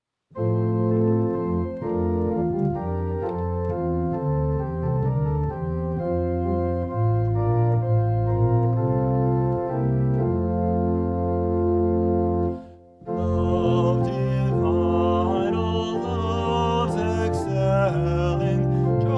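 Organ playing slow, sustained chords as a prelude. The music breaks off briefly about thirteen seconds in, then resumes with brighter upper notes.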